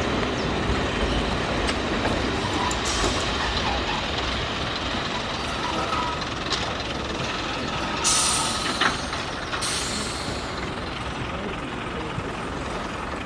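Heritage railway train running on the line with a steady rumble, broken by two short hisses about eight and ten seconds in.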